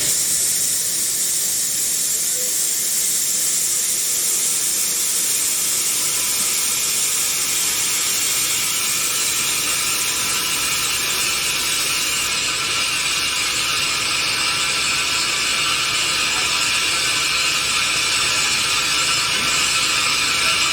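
Steam locomotive venting steam: a steady hiss that grows slightly louder towards the end.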